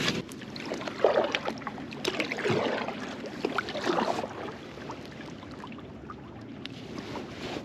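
Small splashes and water movement around a kayak, with scattered light knocks and clicks of handling on the hull and gear.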